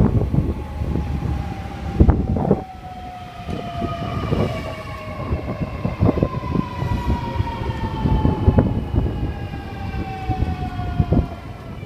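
Electric Millennium (M set) suburban train's traction motors whining, the whine falling slowly and steadily in pitch as the train slows, over rumbling and irregular knocks from the wheels and wind on the microphone.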